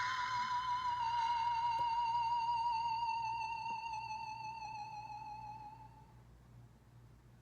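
iPhone 6s Plus ringtone playing from the phone's speaker: a single electronic tone that drops sharply in pitch at the start, then holds with a wavering vibrato, sinking slowly and fading away about six seconds in.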